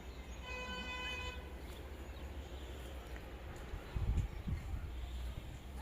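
A vehicle horn sounds one steady, flat toot of about a second near the start, over a low outdoor rumble. A few low bumps on the microphone follow around four seconds in.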